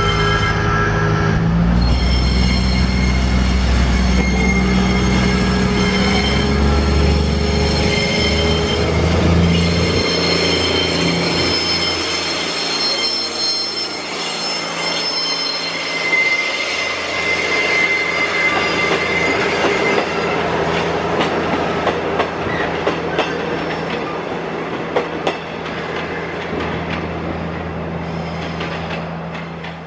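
A passenger train passing slowly. For about the first ten seconds the steam-styled locomotive gives a deep, steady rumble. After that the coaches roll by with their wheels squealing in several high, sustained tones and clicking over rail joints.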